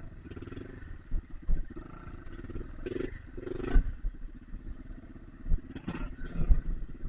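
Trail motorcycle engine running, with short bursts of throttle about three and four seconds in and again about six seconds in, over scattered low thumps.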